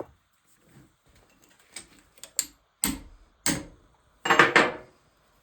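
Sharp metal taps on an NV4500 transmission part, a hammer tapping it to line up the threads and work it off the shaft: five light taps spaced about half a second apart, then a louder quick cluster of hits near the end.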